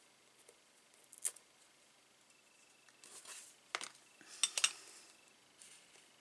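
Papercraft pieces and small tools handled on a craft desk: a few sharp taps and clicks, one about a second in and a cluster near the middle, with brief soft paper rustling.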